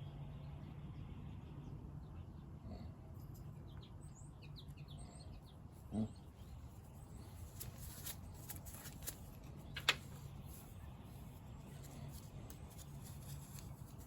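Faint bird chirps over a low steady hum, with a few sharp clicks and taps of small objects being handled; the loudest are a knock about six seconds in and a sharp click about ten seconds in.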